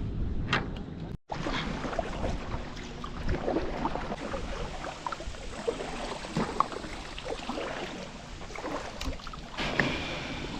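Water sloshing and lapping against a kayak, with wind on the microphone and many small knocks and splashes of handling in the boat; the sound cuts out for a moment about a second in.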